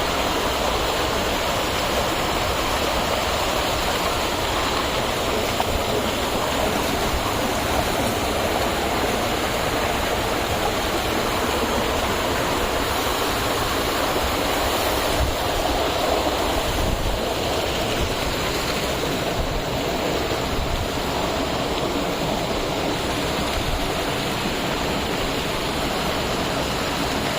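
Small natural waterfall pouring and splashing in a steady, loud rush of falling water.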